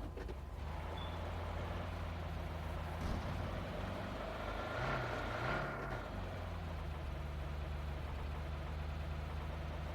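Steady low engine hum, with a louder stretch and a thin whine about halfway through.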